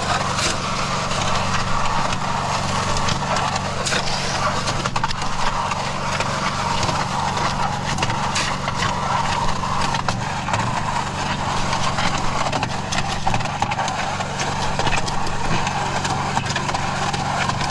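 Mud Mixer portable concrete mixer running: the small engine's steady drone with irregular knocks and a rough scraping noise over it.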